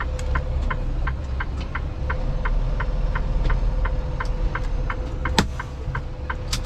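Inside a semi truck's cab: the engine running with a low rumble under a steady clicking about three times a second, the sound of a turn-signal or hazard flasher. A faint steady tone runs throughout, and a single sharper click comes a little over five seconds in.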